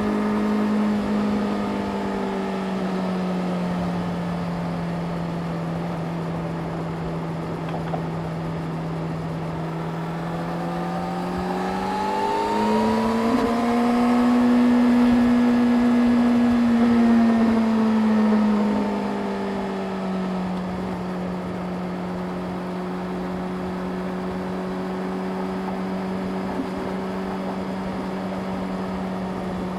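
Yamaha YZF-R6 inline-four engine running at steady road revs. The revs sag a little at first, climb smoothly a little under halfway through, hold for several seconds, then ease back to a steady cruise.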